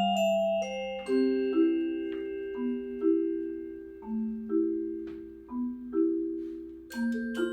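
Mallet percussion ensemble playing a slow waltz. Struck pitched bars ring on in long, sustained chords, re-struck about every second and a half, with higher single notes between.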